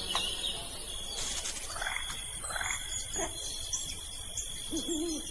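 Dusk nature ambience: a steady high insect trill, like crickets, that sets in about a second in, with scattered short bird chirps over it.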